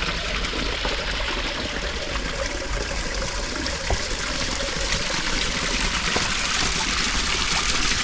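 Water trickling and flowing steadily, a small stream or runnel of water.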